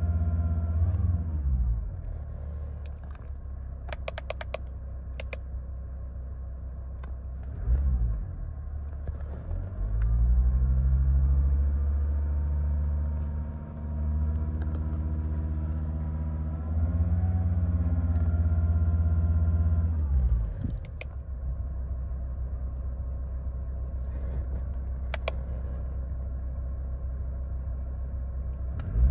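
Mercedes-Benz W211 car engine running, rising to higher revs and dropping back several times: high at first, low after about a second, up again from about eight seconds in, and back down about twenty seconds in. A few sharp clicks sound over it.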